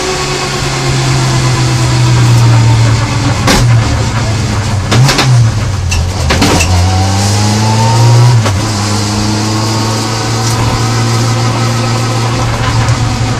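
BMW Compact rally car's engine, heard from inside the cabin, running at low revs. The revs fall away at the start, rise briefly and drop sharply just past the middle, then hold steady. A few sharp knocks come in the first half.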